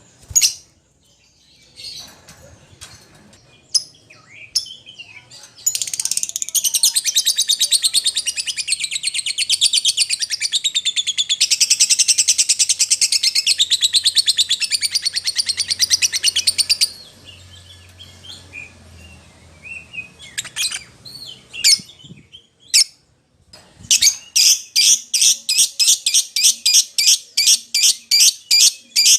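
Lovebird calling: scattered sharp shrill chirps, then a long, very rapid chattering trill lasting about ten seconds, then more scattered chirps. A fast, even run of repeated shrill chirps, about four a second, starts near the end.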